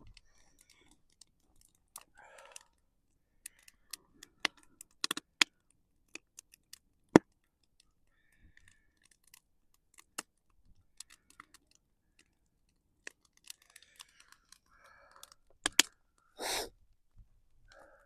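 Wood campfire crackling: irregular sharp pops and snaps, with one louder pop about seven seconds in.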